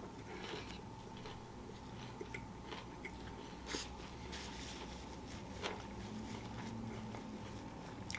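A person biting into and chewing a crispy fried chicken sandwich: faint crunching and mouth sounds, with a sharper crackle about four seconds in.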